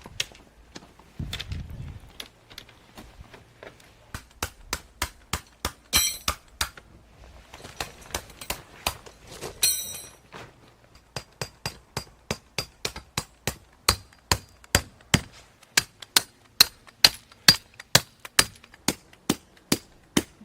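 Hammer blows driving tent pegs: a long run of sharp strikes at about two a second, with a metallic clink a couple of times.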